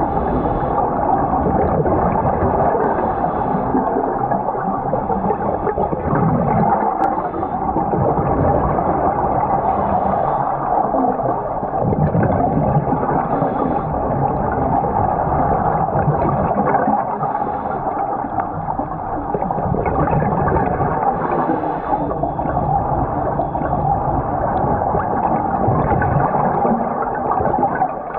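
Steady sloshing and gurgling of water, continuous and fairly loud.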